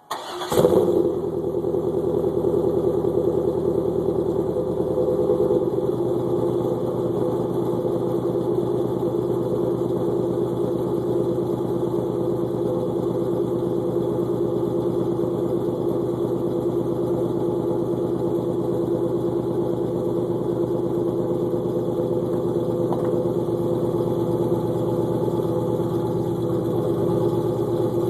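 LQ9 6.0L V8 with an LS6 cam, long-tube headers and Magnaflow cat-back exhaust, cold-started: a brief crank, a flare as it catches, then a steady fast cold idle. The idle eases a little about six seconds in.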